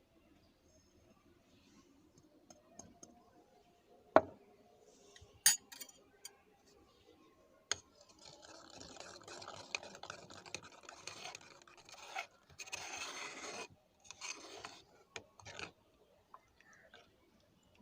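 Kitchen utensil sounds: a few sharp clinks against dishes, then several seconds of scraping or stirring in a bowl, with a few more short scrapes near the end.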